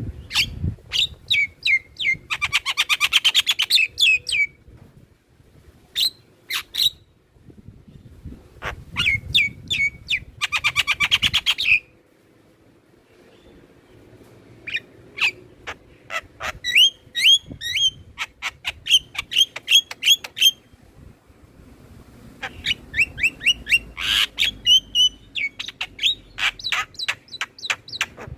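Javan mynas and other mynas chattering and calling, in runs of sharp repeated notes and harsh buzzy rattles. There is a short lull about twelve seconds in.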